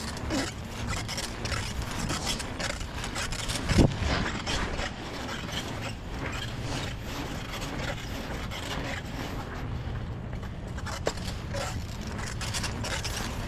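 Fabric rubbing and scraping against a chest-mounted action camera, close to its microphone, with many small clicks and one louder knock about four seconds in.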